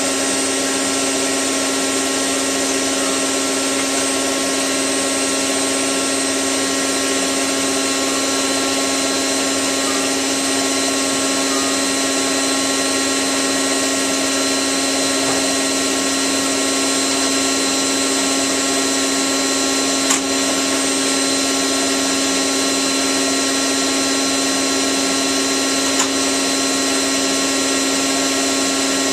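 Hotpoint 9534A washing machine spinning at a steady speed, its motor giving a constant whine, with two brief clicks late on.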